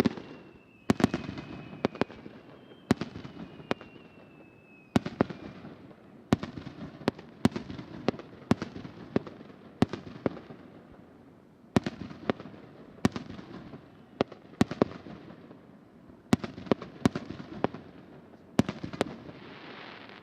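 Aerial fireworks bursting in quick succession: a long run of sharp bangs, often in clusters half a second to a second apart, each trailing off in a rumbling echo. Thin whistling tones sound over the bangs during the first few seconds.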